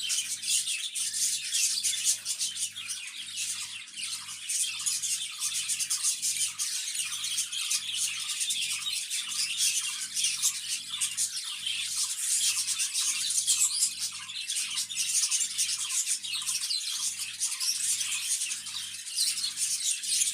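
Many small cage birds chattering and chirping together in a continuous, dense twitter. A faint low hum pulses in the background, a little over once a second.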